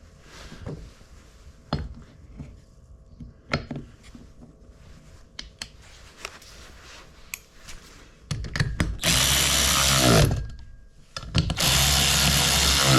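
Handheld electric power tool run in two bursts of about two seconds each, each winding down with a falling pitch when released, after several seconds of light clicks and knocks from tools being handled.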